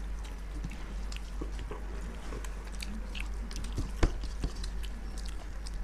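People chewing and biting food with small, scattered wet mouth clicks over a steady low hum. There is one sharp click about four seconds in.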